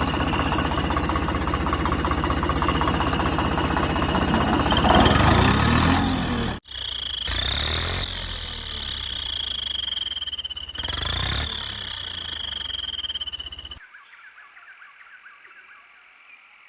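Toy tractor running, a rapid even chugging with a high whine over it, broken by abrupt cuts. About 14 seconds in it drops to faint, quiet crackling.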